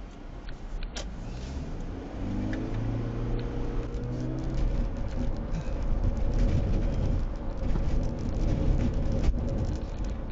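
Car engine accelerating, its pitch climbing, followed by a louder steady low rumble of engine and road noise.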